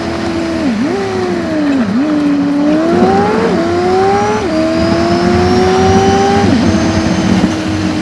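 Renault Laguna 1.8 8-valve four-cylinder engine heard from inside the car, sped up. Its pitch climbs under acceleration and steps down twice at upshifts. Three quick dips and recoveries come as the throttle lifts.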